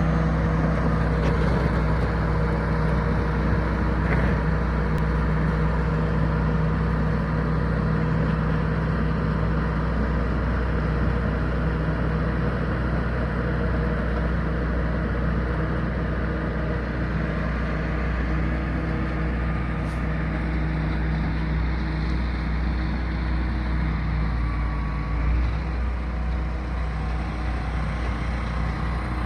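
Box truck engine running at a steady speed, with a constant low hum and a noisy rush.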